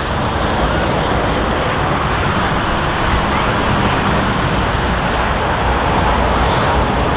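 Steady roar of a Boeing 777F's jet engines, a loud even rush of noise with strong low rumble that holds level throughout.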